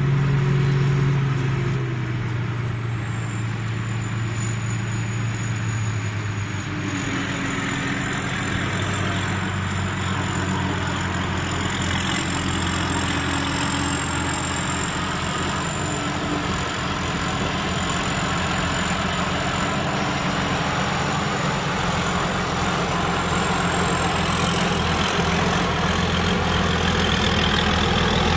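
Thai Seng Yont combine harvester running steadily, its engine and machinery making a continuous drone with a thin high whine that dips a little after the start and climbs again near the end.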